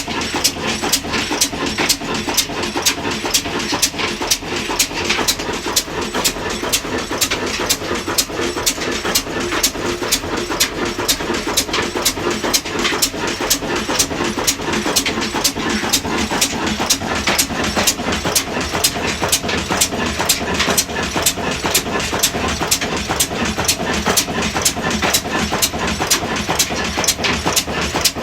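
Large-flywheel indigenous diesel engine running steadily, each firing stroke an even, regular knock with no change in speed.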